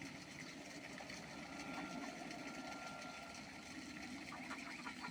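Faint, steady low mechanical hum, like an engine running at idle.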